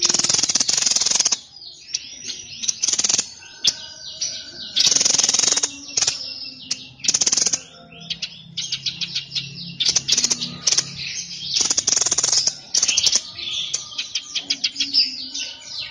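A songbird of the kind Indonesian keepers call 'sniper' singing energetically: loud, harsh rasping bursts of about a second, repeated every two seconds or so, with rapid chirps and trills between them.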